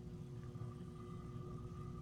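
Bladeless box fan motor running, a faint steady hum with a thin high tone that comes in about half a second in.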